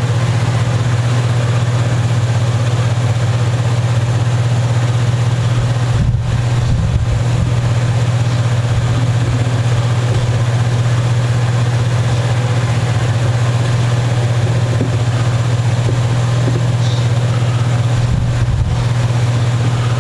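A loud, steady low hum that holds one pitch without change, with a couple of faint low bumps about six seconds in and again near the end.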